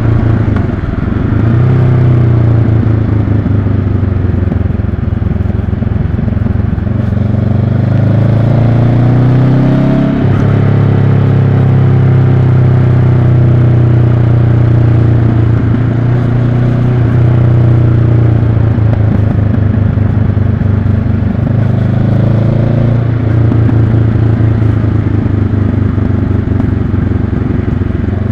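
Honda CB500X parallel-twin motorcycle engine running on a mountain descent, its pitch dipping and rising again several times, with one abrupt change about ten seconds in.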